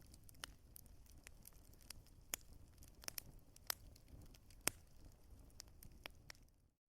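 Wood fire crackling: irregular small pops and clicks over a low hiss, with one sharper pop about two-thirds of the way through. The sound drops out briefly just before the end.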